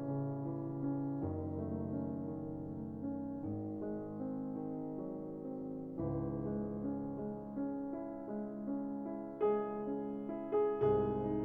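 Background piano music: slow sustained chords, changing every second or two, with a few brighter struck notes near the end.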